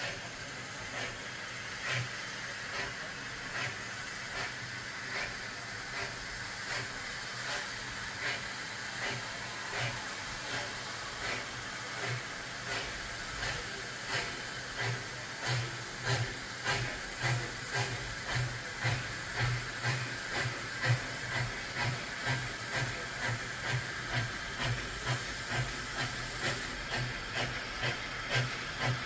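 Steam locomotive working, its exhaust beats coming evenly over a steady hiss of steam; the beats grow louder and a little quicker from about halfway.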